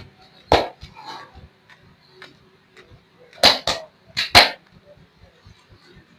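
Sharp slaps of hands on oiled skin during a leg massage: one slap about half a second in, then two quick pairs of slaps past the middle.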